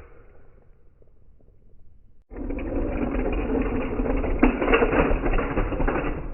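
Slowed-down, deepened clatter of 1/64 scale diecast toy cars, a dense rattle of rapid clicks that starts suddenly a little over two seconds in and runs for about four seconds. Before it, only a faint low rumble.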